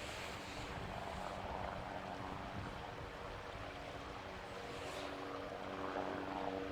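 Steady rush of the flooded Meramec River. A motor's low, steady hum comes in about five seconds in.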